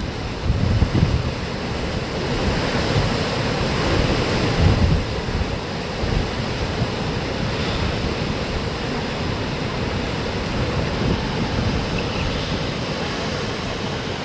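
Hurricane wind and rain: a steady rushing noise, with irregular gusts buffeting the microphone.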